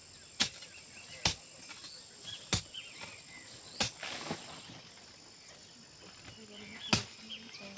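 Sharp single knocks, as of something being struck, coming one at a time at uneven gaps of one to three seconds. Behind them runs a steady high insect whine that stops about halfway through and comes back a little later.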